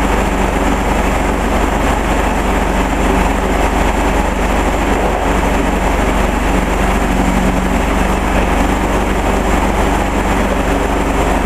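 Homemade portable sawmill running steadily under engine power, an even mechanical drone with no change in pitch or level.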